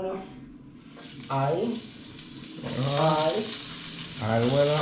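Chopped vegetables and seasonings tipped into a pan of hot oil and sizzling. The sizzle starts about a second in and grows louder partway through. A man's voice cuts in briefly several times.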